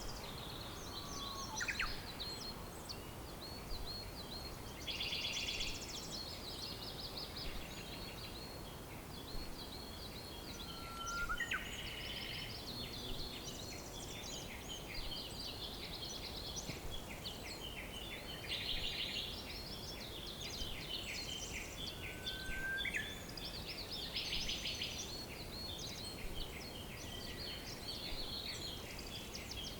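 A dense chorus of small songbirds chirping and trilling continuously over a steady background hiss, with a few short rising whistles.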